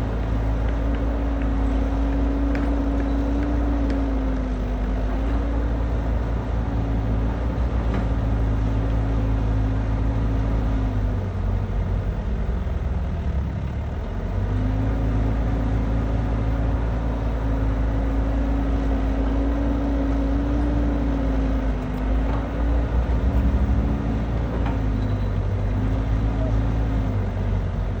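Kubota DC70 rice combine harvester running, a steady machine drone with a wavering whine over it that drops away for a few seconds in the middle before returning.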